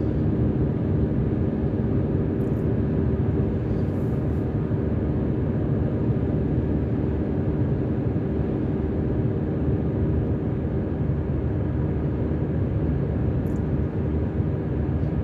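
Steady road noise of a car driving at highway speed, heard from inside the cabin: an even rumble of tyres and engine.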